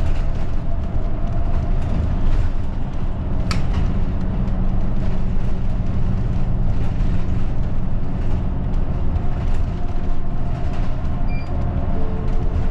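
Route bus heard from inside the cabin while driving: a steady low rumble of engine and road noise, with scattered light rattles and clicks.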